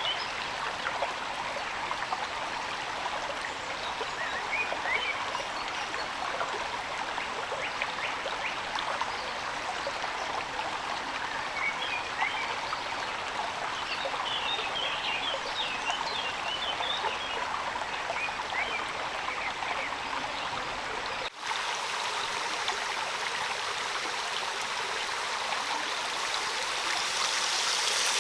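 Steady rushing water noise, with small birds chirping in short twittering calls several times. About two-thirds of the way through the sound cuts abruptly to a thinner water noise, and a high hiss swells near the end.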